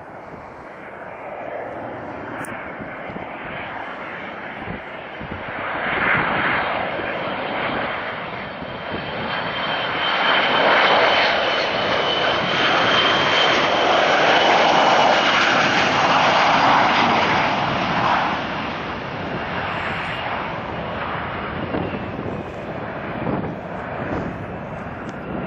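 Jet airliner's engines passing close by, the rushing noise building, loudest for several seconds in the middle, then fading, with a thin high whine over it.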